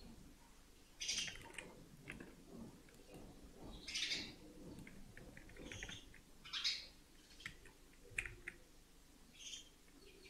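Faint bird chirps: short high calls every second or two. Between them come a few soft clicks from keyboard and mouse use.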